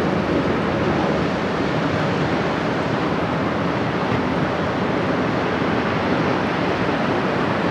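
Steady rushing noise of wind and river water, even throughout.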